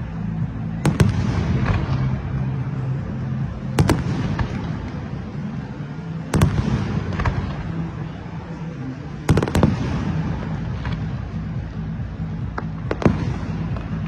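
Fireworks going off: about five loud bangs a few seconds apart, with smaller cracks in between, over a steady low hum.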